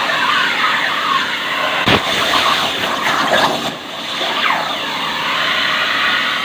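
CNC plasma cutter torch cutting steel plate: a loud, steady hiss of the plasma arc with a few wavering tones, and a sharp crack about two seconds in.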